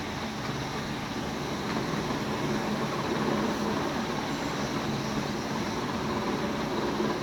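Steady background rumble and hiss with a faint low hum, even throughout.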